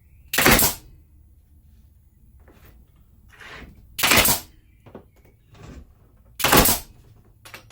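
Cheap pneumatic denailer firing three times, each a short, sharp blast as it punches a nail out of reclaimed timber: one shot about half a second in, one about four seconds in and one near the end, with quieter handling knocks between.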